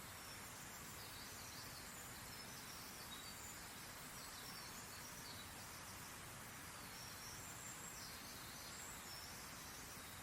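Scattered faint, high-pitched bird chirps and short calls over a steady background hiss.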